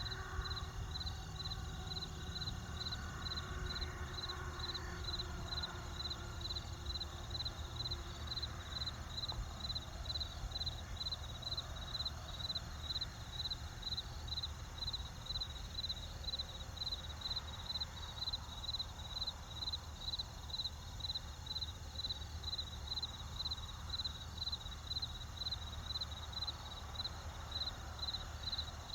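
Crickets chirping in an even, steady rhythm of about two chirps a second, over a low steady rumble.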